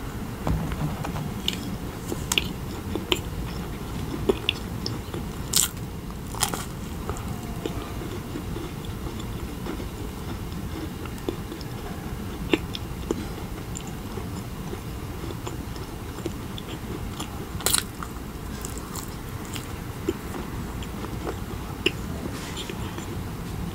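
Close-miked chewing of a chocolate-covered marshmallow, with scattered sharp clicks and crackles over a steady low mouth sound.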